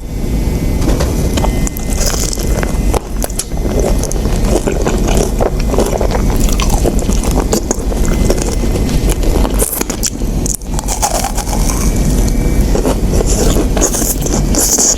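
Close-miked biting and chewing of fried chicken, a dense run of clicks and crackles over a steady low rumble.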